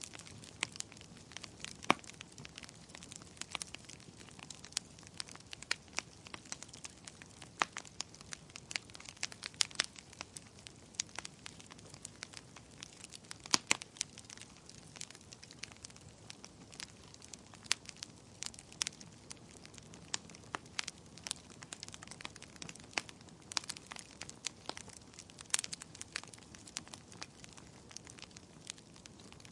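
Wood bonfire crackling: irregular sharp pops and snaps, a few louder ones scattered throughout, over a soft steady hiss of burning.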